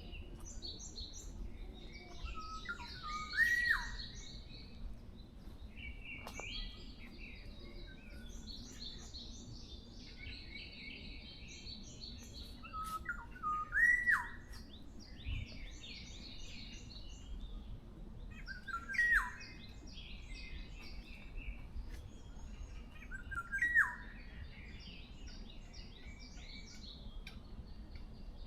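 Several wild forest birds singing and chirping at once. One bird repeats a loud short phrase ending in a sharp swooping note four times, every five to ten seconds, over steady high chirping from others.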